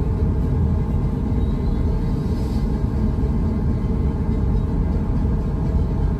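A steady low rumble that runs without breaks, with a faint high thin rising tone briefly about two seconds in.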